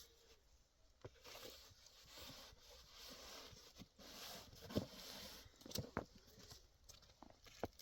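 Faint, slow footsteps crunching through deep snow, with a few soft knocks.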